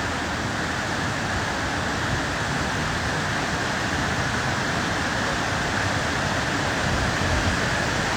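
Steady rushing of river water, an even roar that holds at one level throughout.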